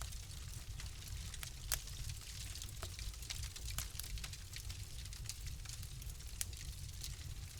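Wood fire crackling: many small, irregular pops and snaps over a steady low rumble and hiss of the flames, with one louder pop about two seconds in.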